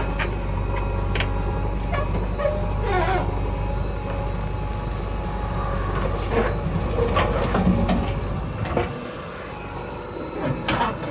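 JCB 3DX backhoe loader's diesel engine running steadily, with scattered metal knocks and a few short squeals from the working arm and bucket. The engine's low hum drops away briefly near the end.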